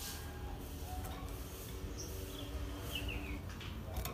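A few faint, brief high chirps from a small bird over a low steady hum, the notes sliding downward, about two to three and a half seconds in.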